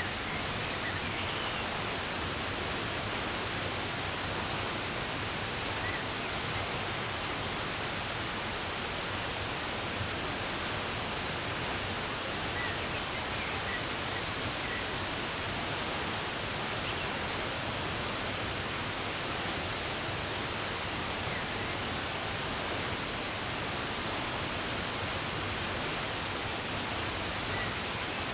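Steady, even rush of running water, with a few faint, short bird chirps now and then above it.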